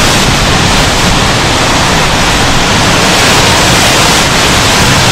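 Loud, steady rushing noise spread evenly from low to high pitch, the storm sound of the hurricane 'live video'.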